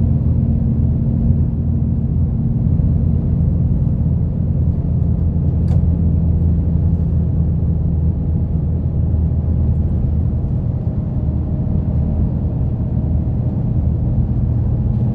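Route bus engine running under way, heard from inside the cabin: a steady low hum over tyre and road rumble, with one faint click about six seconds in.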